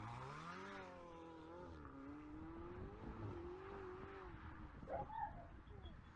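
Car engine revving. Its pitch rises for a moment, then holds high and wavers slightly as it runs on, heard faintly.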